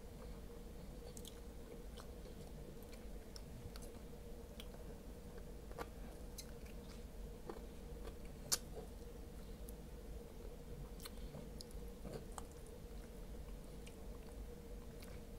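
Close-up mouth sounds of a person eating fried ribs: chewing with scattered small wet clicks and smacks, and one sharper click about eight and a half seconds in. A faint steady hum sits underneath.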